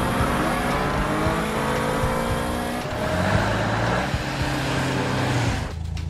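Cartoon sound effects of several car engines running and revving, their pitch slowly rising. Near the end this gives way to a steady low engine drone.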